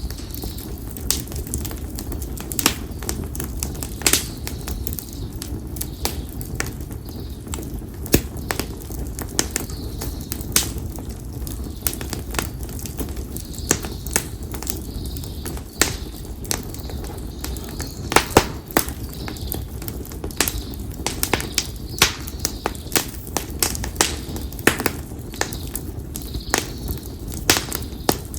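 Konara oak firewood burning in an open campfire, crackling with frequent sharp, irregular pops, several a second, over a steady low rumble.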